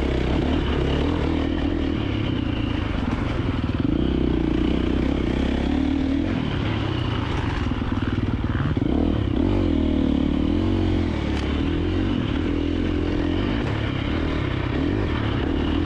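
A KTM 350XC-F dirt bike's single-cylinder four-stroke engine running under constantly changing throttle, its pitch rising and falling as the revs come up and drop back, with some clattering alongside.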